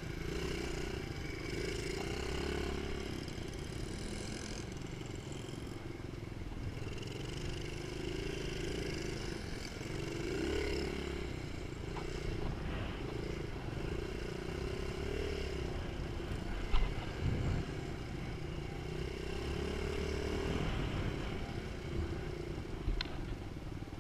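Mini motocross bike engine running and revving up and down as it is ridden around the track. There is a sharp knock about two-thirds through and a smaller one near the end.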